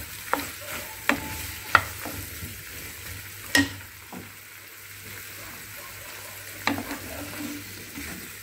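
Cubed cucumber and green chillies sizzling in oil in a pan, stirred with a wooden spatula that knocks against the pan about five times, the sharpest knocks a little under two seconds and about three and a half seconds in.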